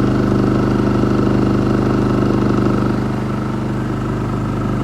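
Generator engine running steadily under load at about 40% of its capacity while powering an RV air conditioner, a constant low hum with its exhaust; it gets slightly quieter about three seconds in.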